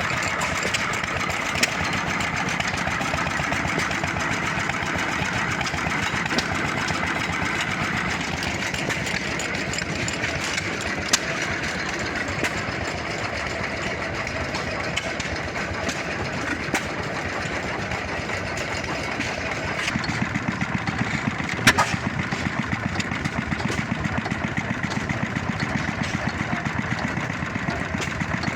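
Old engines running steadily, a continuous chugging mechanical din. About two-thirds of the way in, a regular, rapid beat of exhaust pops stands out more clearly.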